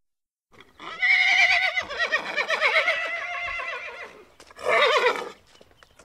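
Horse whinnying: one long whinny of about three seconds with a wavering pitch, then a shorter second whinny about a second later.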